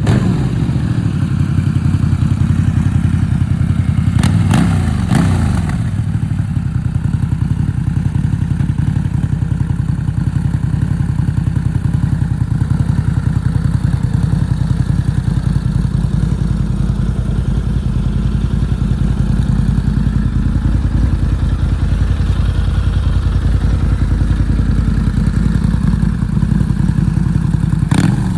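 Harley-Davidson V-Rod's liquid-cooled V-twin idling through its exhaust, with a brief rev about four seconds in and another at the very end.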